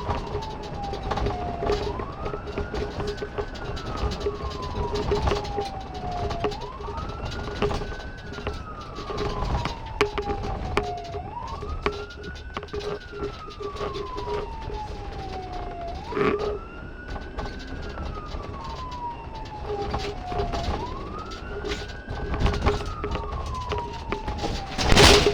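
Police car siren in wail mode: a tone that rises quickly, then falls slowly, repeating about every five seconds over steady vehicle noise. A sharp knock comes about two-thirds of the way through, and a louder thump near the end.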